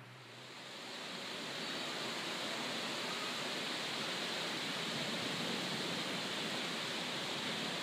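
Steady rain falling, a continuous hiss that swells in over the first second or two and then holds level.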